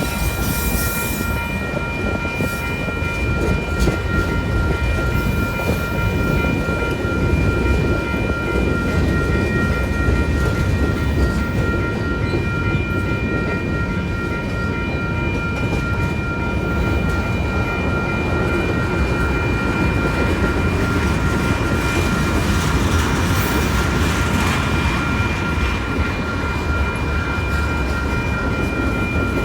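Union Pacific freight train rolling through a pedestrian grade crossing: a steady rumble and clatter of wheels on rail. Over it the crossing's WCH Type 2 electronic bells ring continuously.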